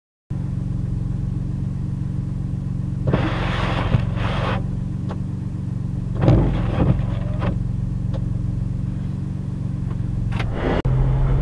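Car engine idling steadily, heard from inside the cabin, with a few brief scraping noises about three, four and a half, six and ten seconds in.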